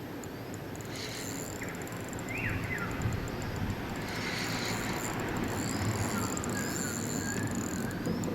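Outdoor ambience: a steady low rumble and hiss, with an insect's high pulsing buzz and a few short bird chirps.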